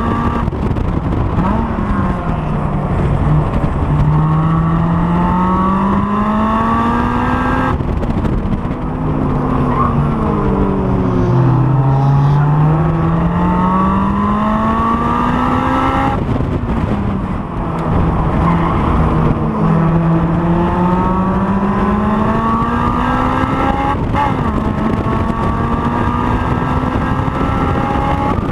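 Honda S2000's four-cylinder engine at racing speed, heard from an onboard camera: the revs climb in long pulls several times and fall back when the driver lifts and brakes.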